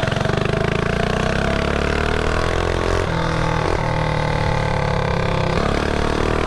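Mini bike engine running as the bike rides along, its pitch slowly rising, with short dips about three seconds in and again near the end before it climbs again.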